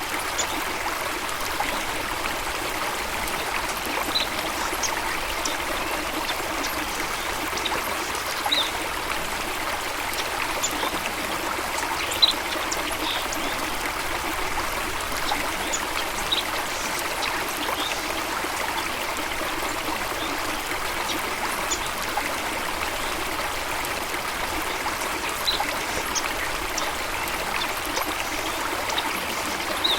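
Steady flowing water of a stream or small waterfall, an even rushing and trickling. Short high sounds are scattered through it, the loudest about twelve seconds in.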